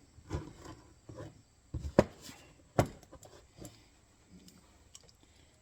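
Steel parts of an MB 550 foothold trap clicking and knocking together as its jaws and levers are fitted by hand: a handful of sharp clacks, the loudest about two seconds in and again just before three seconds, then only faint taps.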